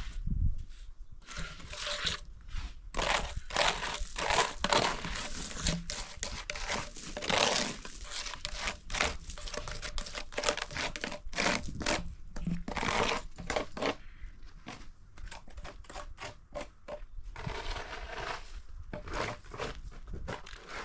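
Irregular crinkling and rustling, a run of short scratchy crunches, as material is handled and worked.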